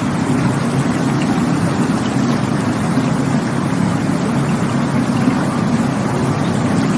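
Rushing stream water, a steady, deep, unbroken rush.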